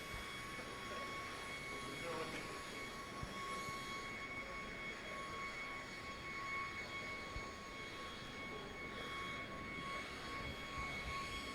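A steady high-pitched machine whine, one unchanging tone with its overtones, over a haze of background noise.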